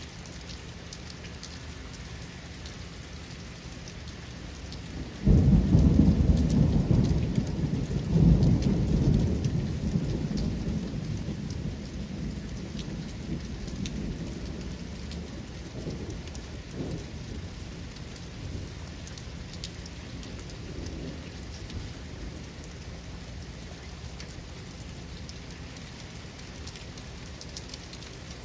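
Steady rain with a sudden thunderclap about five seconds in and a second crack a few seconds later, followed by a long rumble that slowly fades away.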